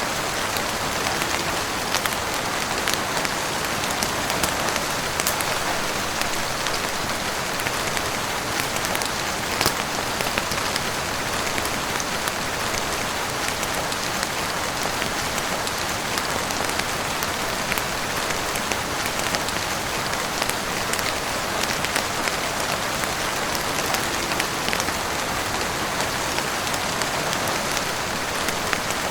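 Heavy rain falling steadily on a roof and windows, an even wash of sound with many small scattered ticks of drops.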